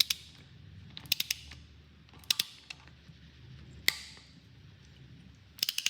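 Ratchet of a torque wrench clicking on an LS3 cylinder head bolt during the first tightening pass to 25 pound-feet: short groups of sharp clicks, with one louder single click about four seconds in.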